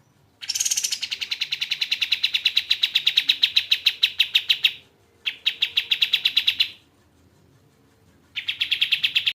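Kapas tembak songbird singing rapid trills of quickly repeated high notes, in three bursts: a long one of about four seconds, a shorter one, and a third starting near the end.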